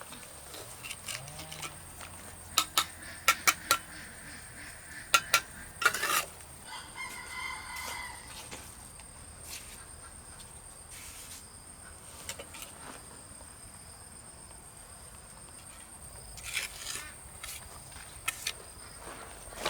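A rooster crows once, about seven seconds in, among a scatter of sharp knocks and taps.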